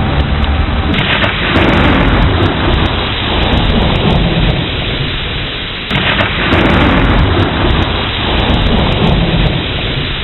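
Thunderstorm: steady heavy rain with thunder rumbling low underneath. There are sudden louder surges about a second in and again about six seconds in.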